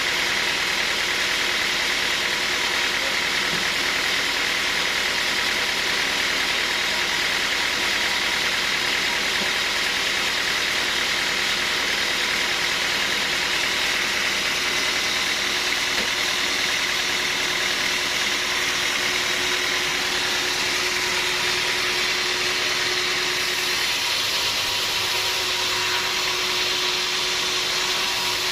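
Sawmill machinery running steadily, an even mechanical drone with a constant hum and no change in load.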